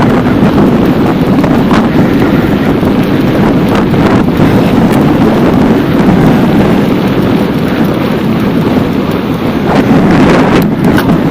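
Loud, steady wind rumble on the microphone of a camera carried on a bicycle at speed, with a few faint knocks.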